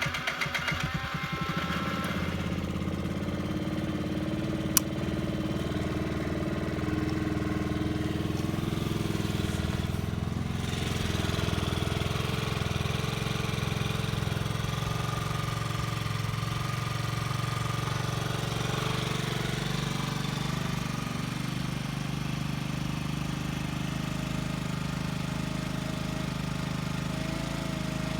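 Yamaha Vino scooter engine just started and idling steadily, its firing a little uneven in the first second or two. A single sharp click about five seconds in.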